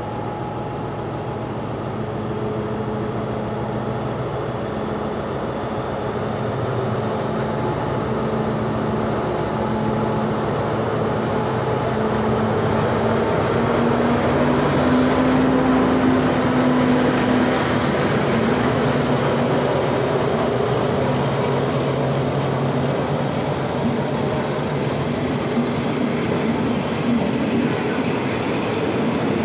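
Diesel locomotive hauling a passenger train along the platform. Its engine drone swells as it comes close, loudest about halfway through, and is followed by the coaches rolling past.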